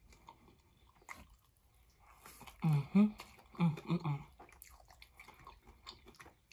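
Close-miked wet chewing and lip smacking of a mouthful of soft hamburger steak. About halfway through come several short closed-mouth "mm" hums of enjoyment.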